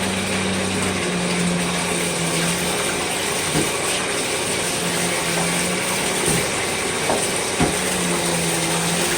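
Tap water running steadily, with a low hum in the plumbing that comes and goes, as vacuum filters are rinsed.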